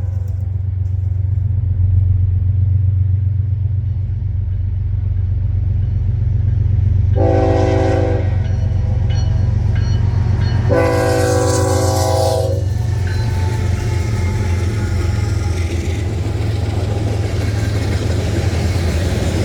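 A train passing with a steady low rumble. Its horn sounds twice: a short blast about seven seconds in, then a longer one about eleven seconds in.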